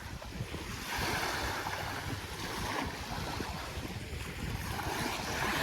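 Wind buffeting the microphone over small waves washing on the shore, the wash swelling about a second in and again near the end.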